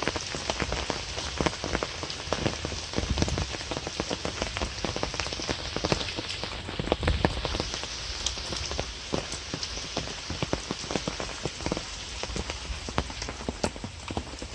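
Light rain falling, a steady patter of many small drops hitting the surface close by.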